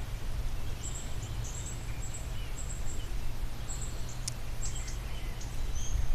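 Small songbirds giving short, high, thin calls several times, over a steady low rumble.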